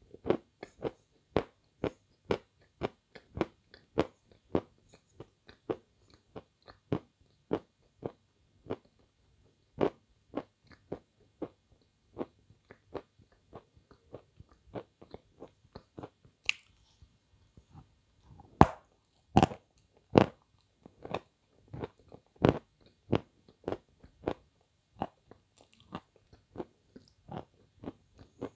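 Close-up eating sounds of a glazed ice cream bar: biting and chewing in short, sharp clicks, about two a second, with a few louder bites about two-thirds of the way through.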